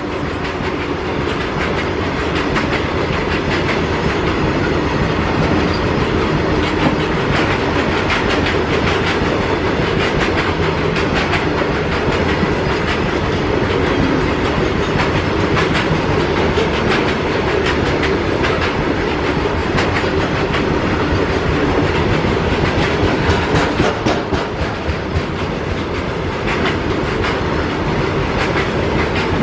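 Freight train wagons rolling past on an Indian Railways line, their wheels clattering steadily over the rail joints in a dense run of clicks.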